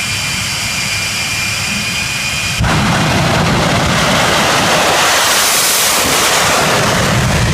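Jet truck's jet engine running with a high whine, then about two and a half seconds in it throttles up abruptly to a much louder, steady rushing blast.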